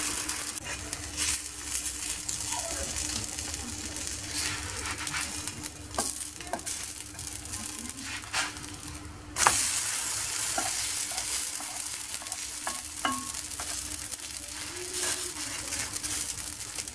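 Stuffed msemen flatbread sizzling as it fries in a little oil on a hot flat metal griddle, with a plastic spatula scraping and tapping against the griddle. The sizzle gets louder about nine seconds in.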